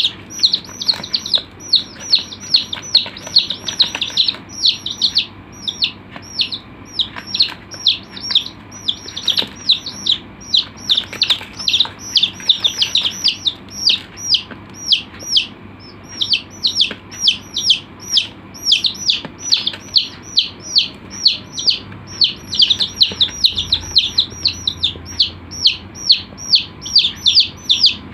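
Chicks peeping: a steady stream of short, high, falling peeps, several a second and often overlapping, from more than one bird.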